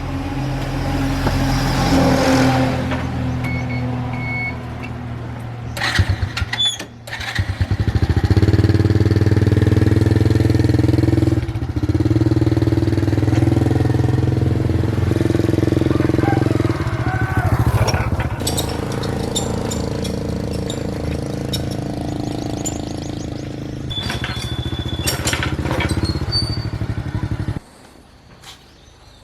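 Small gasoline engine of a water pump running, getting louder about eight seconds in, then shutting off abruptly near the end.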